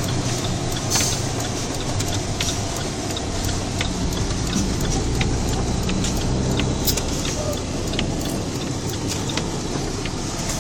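Steady engine and road noise of a heavy snowplow truck heard from inside the cab, a low engine hum under a wash of noise, with a few scattered sharp clicks.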